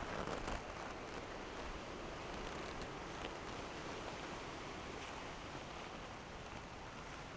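Steady, even hiss with faint rustling, like outdoor background noise, with a few faint ticks.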